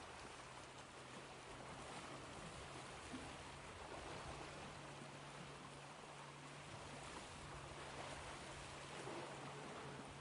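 Ocean surf washing in a soft, continuous hiss that swells gently every few seconds, with a low steady hum underneath.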